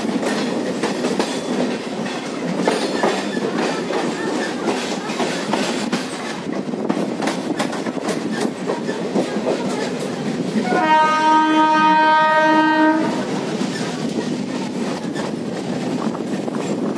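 Passenger train running, heard close to the wheels from the open doorway of a moving coach: a steady rumble with the clickety-clack of wheels over rail joints and points. About eleven seconds in, a train horn sounds for about two seconds.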